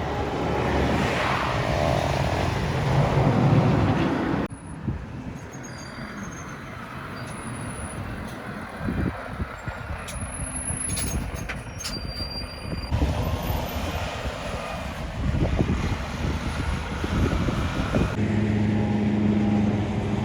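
Heavy trucks driving past on a road, their diesel engines running, heard in several short clips that cut abruptly from one to the next.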